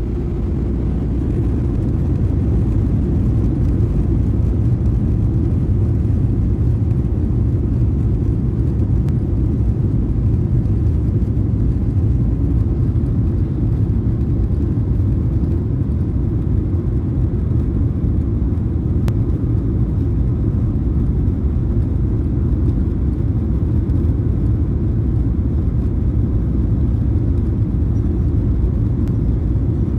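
Airliner cabin noise: the steady, deep rumble of the engines and airflow heard from inside the passenger cabin.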